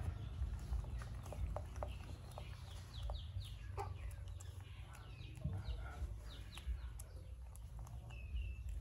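Birds chirping in short, quick falling notes, several a second, over a steady low rumble, with a few soft clicks.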